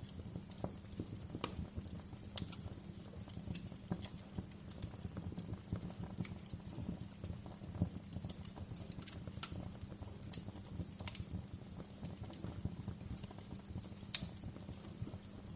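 Wood fire crackling in a fireplace: a steady low rumble of flames with irregular sharp pops and snaps, a louder pop near the end.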